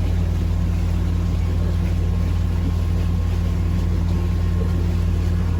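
A sailboat's engine running steadily, motoring under way: a constant low drone.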